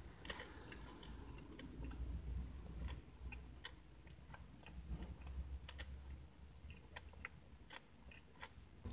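Chewing a mouthful of frosted cupcake: soft, wet mouth clicks and lip smacks at an irregular pace, over a low steady rumble.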